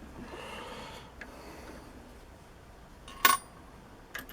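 Small metal workpiece or tool handled on a workbench: faint rubbing in the first second, then one sharp metallic clink about three seconds in that rings briefly, and a couple of light ticks near the end.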